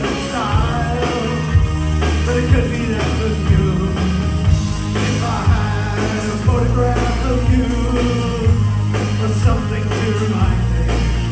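Live new wave band performing a song: lead vocals over a steady drum beat, bass and keyboards.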